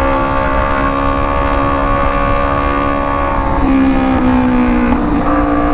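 Kawasaki Ninja 250 parallel-twin engine running through a full-system aftermarket exhaust, held at a steady pitch, dipping briefly around four seconds in and then rising back.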